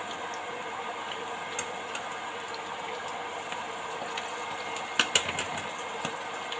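Beetroot leaves frying in hot oil: a steady sizzle with scattered small pops, and a quick cluster of sharp clicks about five seconds in.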